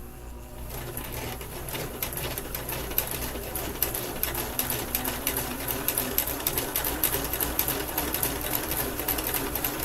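A basic Kenmore sewing machine running a zigzag stitch, the needle clicking rapidly and evenly over a low motor hum. It starts about half a second in and picks up speed and loudness over the next few seconds.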